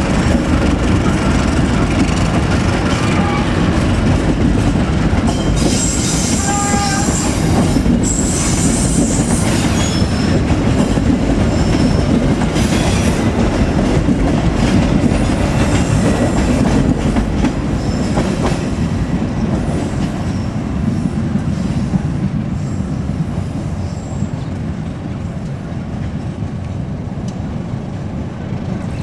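Passenger train coaches rolling past at close range, a steady rumble of wheels with rhythmic clacking over rail joints and brief high wheel squeals several seconds in. Near the end the sound fades a little as the train moves away.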